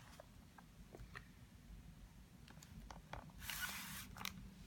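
Quiet room with faint scattered handling clicks and a short rustle about three and a half seconds in.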